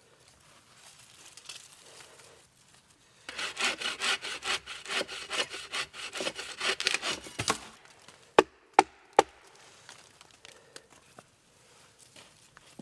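Wood being sawed by hand in rapid back-and-forth strokes for about four seconds, followed by three sharp knocks of a tool striking wood.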